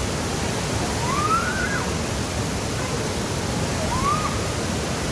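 Waterfall rushing, a steady even wash of water noise. Two faint, short, rising-then-falling calls sound above it, about one second in and again about four seconds in.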